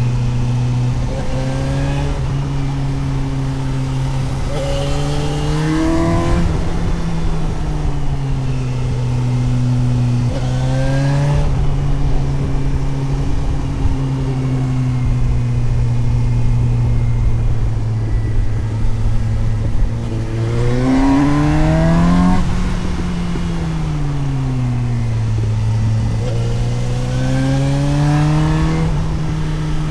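Suzuki GSX-S750 inline-four motorcycle engine heard onboard while riding, under a rush of wind. The revs climb and fall back about four times as the rider opens and closes the throttle through the bends.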